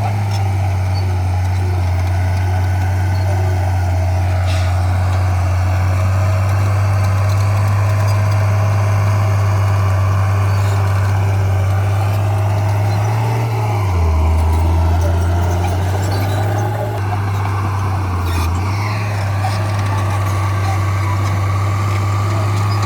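Komatsu bulldozer's diesel engine running steadily while working. Its low hum drops in pitch for a second or so about halfway through, as if under load, and dips briefly again a few seconds later.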